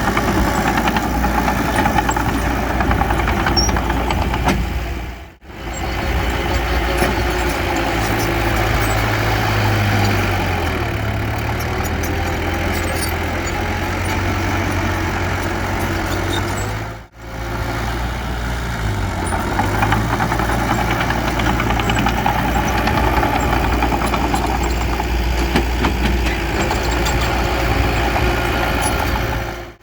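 Heavy diesel engine of a bulldozer running steadily. Its note drops and recovers about 10 seconds in and again near 19 seconds. The sound cuts out briefly twice, about 5 and 17 seconds in.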